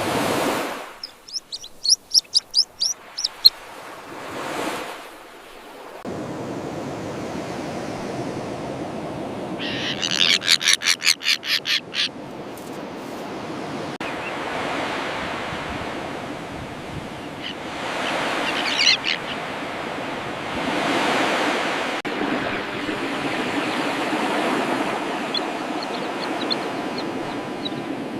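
Terns calling over steady surf. A quick run of high chirps comes early on, and a loud, fast-repeating burst of calls comes about ten seconds in, with another call later. Before the surf settles in there are two whooshing swells.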